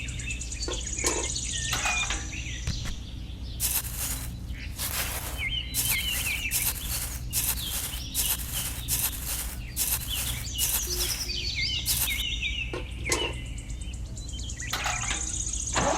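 Small birds chirping in short rising and falling notes over a steady low hum, with a quick run of short noises in the middle.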